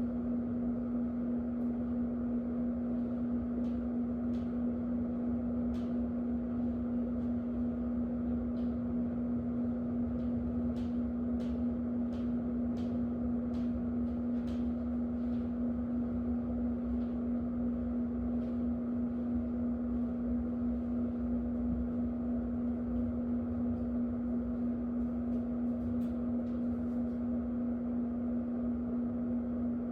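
Electric fan running steadily: a constant motor hum under an even rush of moving air, with faint scattered ticks through the middle.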